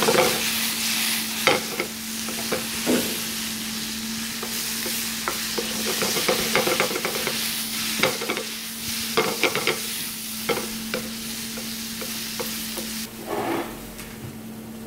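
Pumpkin and green onion sizzling in oil in a pan while a wooden spatula stirs and knocks against it, with many sharp clicks. The sizzle drops away about thirteen seconds in, leaving a steady low hum.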